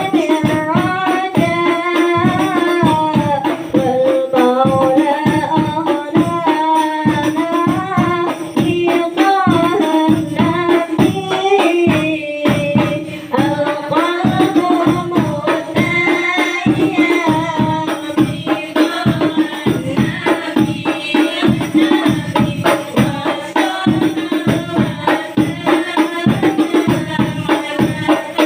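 A group of women singing together over a fast, steady beat of rebana frame drums with jingles.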